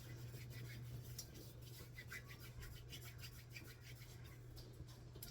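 Faint rubbing and light clicks from hands working dumpling dough over a steady low hum.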